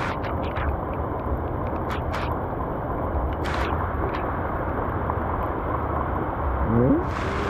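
Steady low rushing noise of open-water ambience on the microphone, with a few light clicks in the first half.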